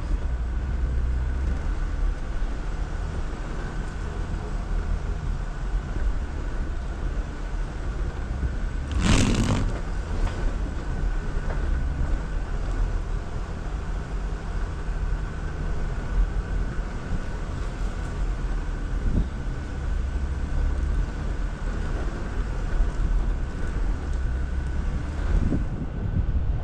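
Jeep Wrangler Rubicon driving slowly on a snowy off-road trail, its engine a steady low rumble. About nine seconds in there is one brief, louder noise.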